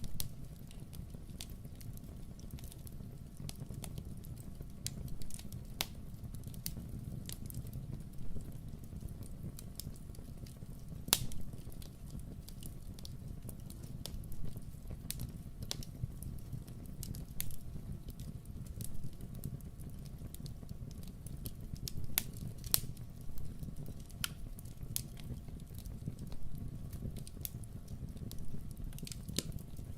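Fireplace fire crackling: irregular sharp pops and snaps over a steady low rumble, with a louder pop about eleven seconds in and a few more past the middle.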